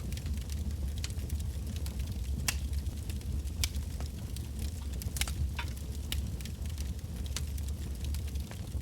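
Firewood burning in a bonfire, with irregular sharp crackles and pops from the logs over a steady low rumble.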